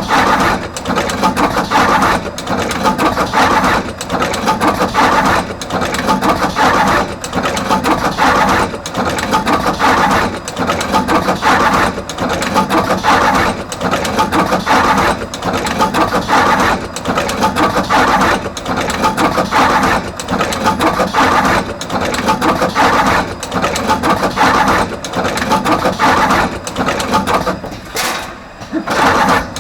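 Artos CR22 automatic wire crimping machine running continuously, crimping terminals on both wire ends in a steady repeating cycle about every second and a half. There is a brief lull near the end.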